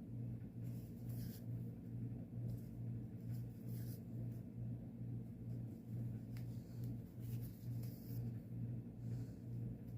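Cross-stitch floss being pulled through stamped fabric in a few soft scratchy swishes, over a low hum that pulses about twice a second.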